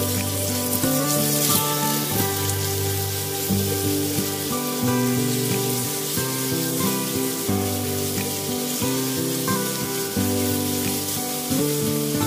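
Pork strips sizzling in oil as they are stir-fried with garlic and onion in a nonstick wok and turned with a spatula, under background music with slow, held notes.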